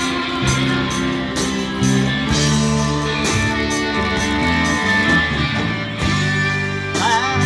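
Rock band playing an instrumental guitar passage: guitars over sustained chords and a steady drum beat, with bent lead-guitar notes near the end.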